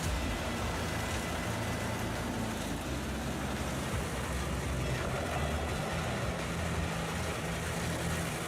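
Large mobile wood chipper running steadily: a low engine drone under a broad rushing noise.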